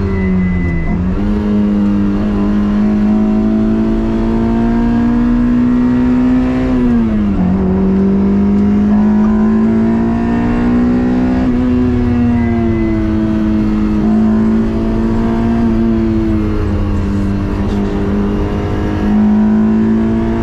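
Third-generation Toyota MR2's swapped 2ZZ-GE 1.8-litre four-cylinder engine running hard under load, its pitch climbing slowly. About a second in and again about seven seconds in the revs drop sharply and then pick up again.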